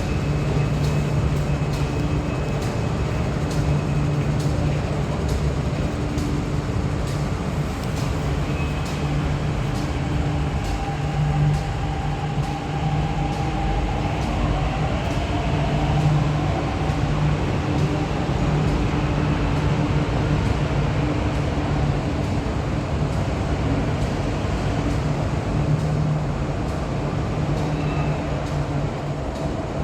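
MTR Q-Train (CRRC Qingdao Sifang metro train) running, with a steady electric hum and a fainter whine that rises in pitch midway.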